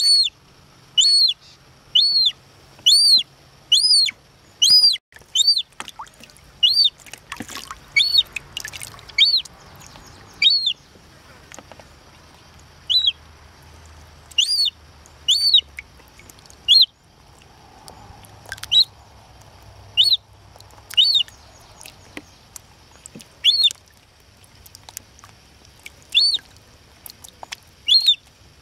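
Young gull chick, a few weeks old, giving a string of short, high peeping calls, each rising and falling in pitch; about one a second at first, then more spaced out.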